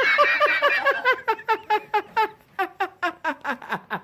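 A fast run of short, high squeaks, about five a second, each dropping in pitch. They come close together at first and more spaced out after about two seconds.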